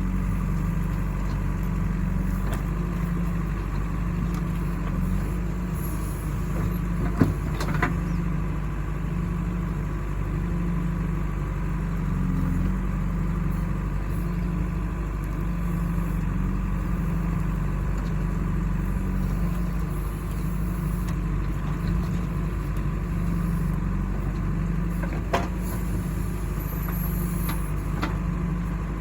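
Heavy diesel machinery engine running steadily at a low, even speed. A few sharp knocks come about seven to eight seconds in and once more near the end.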